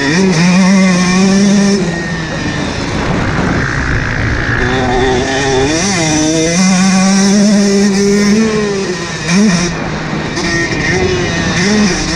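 Husqvarna motocross bike's engine ridden hard on a track. The revs are held high for long stretches, then drop sharply and climb back several times, as the rider shifts or rolls off and gets back on the throttle.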